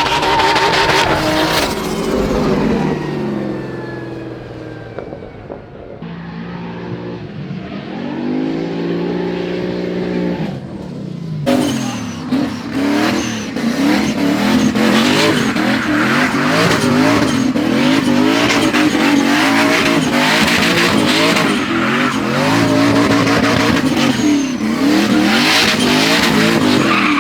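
Drift cars at full throttle: engines revving hard, their pitch rising and falling quickly, with tyres screeching. The sound changes abruptly about a third of the way in and again a little before halfway, after which it stays dense and loud.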